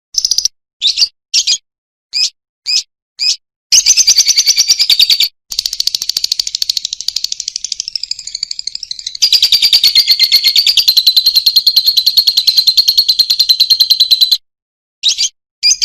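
Lovebird singing: a few short, sharp high chirps, then from about four seconds in a long, very fast chattering trill of about ten seconds (the long 'ngekek' of Indonesian bird-keepers). It breaks off into short chirps again near the end.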